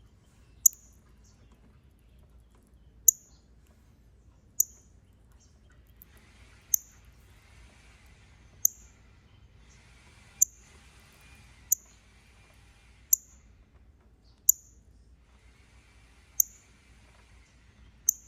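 Northern cardinal giving sharp, high chip calls, eleven in all, one every second or two, each a quick downward slur.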